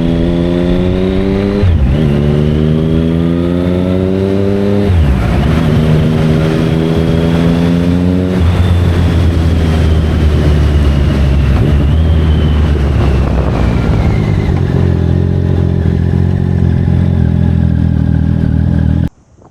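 Triumph Speed Triple 1050R's inline three-cylinder engine with its GP exhaust, accelerating hard through the gears. The engine note climbs and drops back three times with quick upshifts in the first eight seconds, then settles to a steady cruising note.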